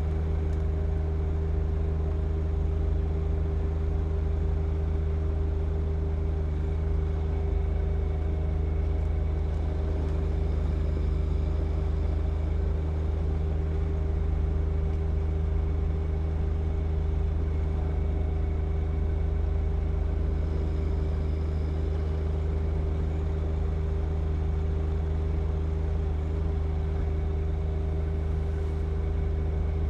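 John Deere 1025R compact tractor's three-cylinder diesel engine running at a steady, constant speed while driving a snow blower, with no change in pitch.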